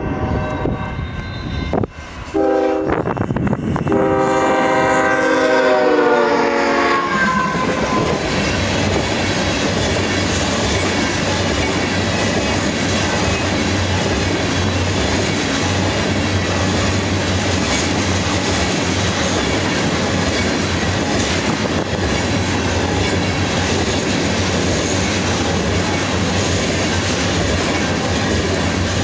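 A diesel freight locomotive's multi-tone air horn sounds as the train approaches: a short blast, then a longer one that slides down in pitch as the locomotive passes. Then comes the steady rumble and wheel clatter of loaded crude oil tank cars passing at high speed.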